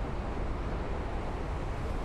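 Steady rushing wind noise on the microphone, heaviest in the low rumble, with no distinct tones.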